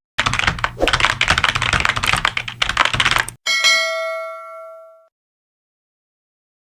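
Rapid keyboard typing clatter for about three seconds, then a single bell ding that rings and fades out over about a second and a half, like an outro sound effect.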